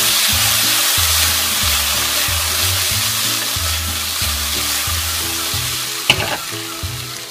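Broccoli, garlic and cherry tomatoes sizzling in olive oil in a frying pan that is tossed at the start; the sizzle eases a little toward the end. Background music with a repeating bass line plays underneath, and there is a light knock about six seconds in.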